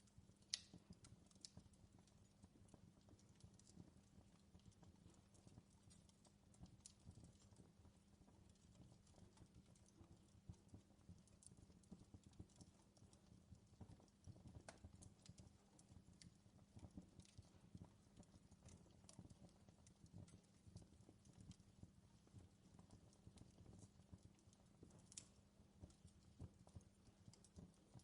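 Faint fireplace sound: a wood fire crackling with scattered sharp pops over a low steady rumble.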